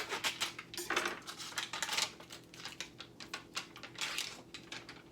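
Kitchen handling sounds: a hummus container being opened and a utensil clicking and scraping against it as hummus is scooped out, a quick irregular run of small clicks and scrapes.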